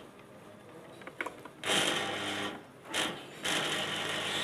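Jony table fan motor buzzing and vibrating as power is put to its coil with a newly fitted capacitor. It cuts in about a second and a half in, drops out briefly, then runs steadily, a sign that the coil and new capacitor are working. A few small clicks of the wire contacts come just before it starts.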